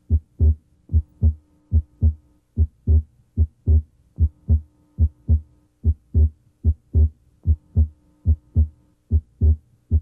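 Heart sounds heard through a stethoscope's diaphragm at the left sternal border, third interspace: a regular lub-dub of S1 and S2 at about 75 beats a minute. The second sound is split, abnormally wide and varying with respiration.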